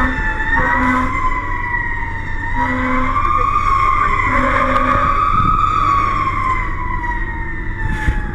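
Emergency vehicle siren wailing, slowly rising and falling in pitch and gliding down near the end, over the rumble of the vehicle's engine. Three short low blasts sound within the first five seconds.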